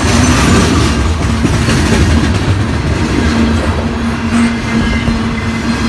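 Coal hopper cars of a freight train rolling past close by: a steady, loud rumble of wheels on rail, with a low hum that comes and goes.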